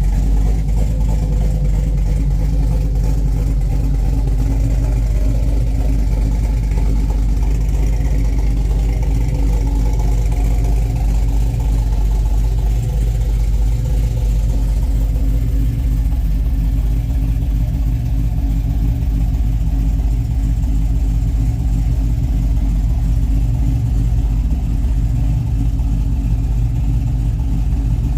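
Chevy 5.3-litre V8 with a Brian Tooley Racing Truck Norris camshaft idling steadily.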